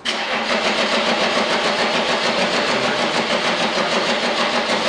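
Diesel engine being turned over on its starter motor, cranking with an even pulsing beat right after the fuel pump has been primed.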